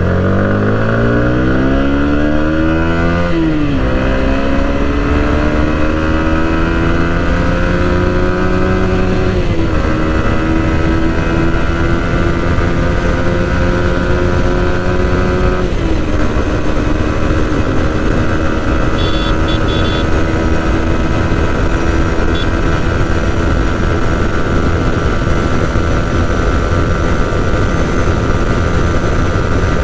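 Yamaha MT-15's single-cylinder engine accelerating hard through the gears on a top-speed run. Its pitch climbs and drops at upshifts about three and a half, nine and a half and sixteen seconds in, then holds nearly steady at high speed, with heavy wind noise on the helmet microphone.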